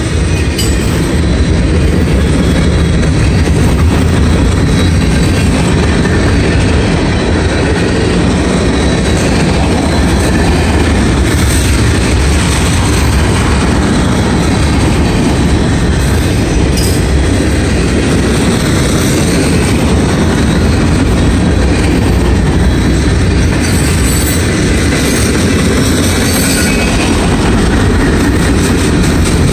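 Freight train's mixed cars (tank cars, covered hoppers and boxcars) rolling past on the rails: a loud, steady low rumble of steel wheels on track that does not let up.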